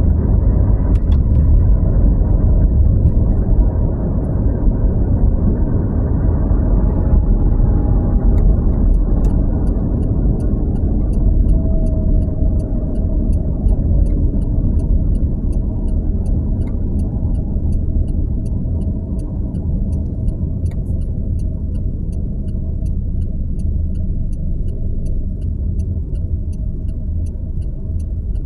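Road and engine noise of a vehicle being driven, heard from inside: a steady low rumble. From about nine seconds in, a faint regular ticking joins it, about one and a half ticks a second.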